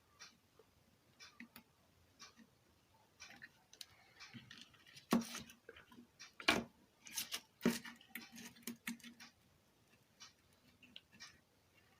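Light clicks and taps of small tools and a circuit board being handled at a workbench, scattered irregularly, with a few louder knocks in the middle.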